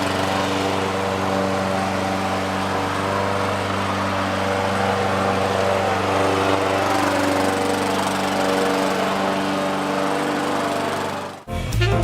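Lawn mower engine running steadily at a constant speed while Dad mows the lawn, then cut off suddenly near the end.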